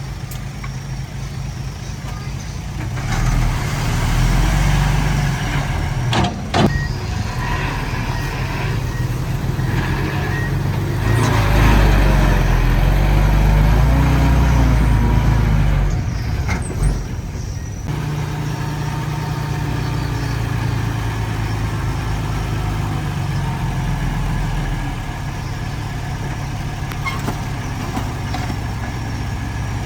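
Diesel engine of earthmoving machinery running. It grows louder under load about three seconds in and again from about eleven to sixteen seconds, with the pitch wavering. Two sharp metal clanks come about six and seventeen seconds in.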